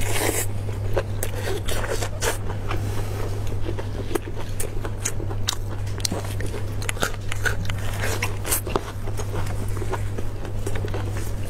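Close-up eating sounds: wet chewing and biting of sauce-covered beef rib meat, with many short sticky smacks and clicks, over a steady low hum.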